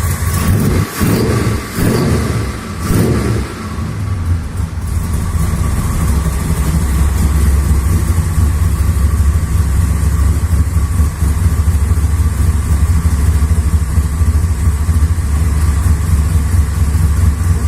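V8 engine revved three times in quick succession, each rev rising and falling, then settling into a steady, deep idle.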